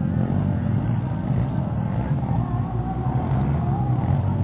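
Motocross dirt bike engines running on the race track, a steady low engine drone.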